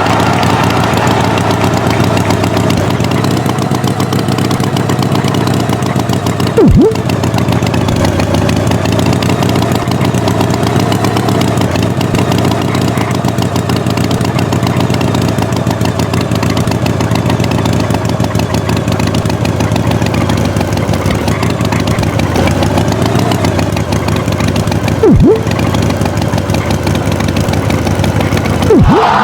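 Tractor engine running steadily, with three short, loud falling swoops: one about a quarter of the way in and two near the end.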